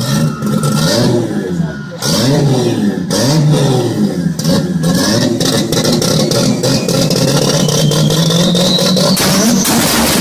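Toyota Supra MK4's twin-turbo 2JZ-GTE straight-six revved in several quick blips, then held at steady revs with a rising whine over the last few seconds.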